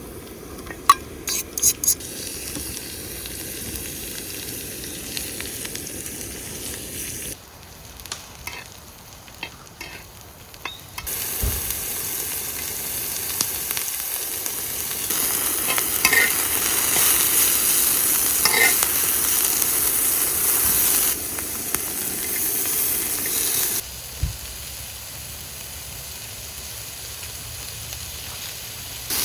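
Food frying and sizzling in a pan, with stirring and a few sharp clicks near the start. The sizzle turns louder about eleven seconds in and changes level abruptly several times.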